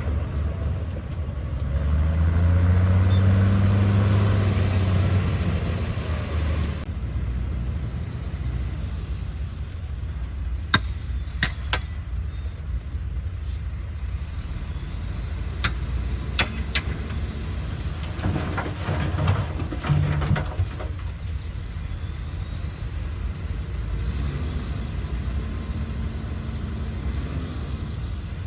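Komatsu crawler bulldozer's diesel engine working, revving up with a rising pitch a couple of seconds in, then settling to a steady rumble. Sharp metallic clanks come now and then, with a short rattling stretch past the middle.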